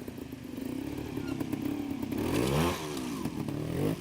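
Trials motorcycle engine running at low revs, then revved hard about two seconds in, its pitch sweeping up sharply and dropping back within about a second.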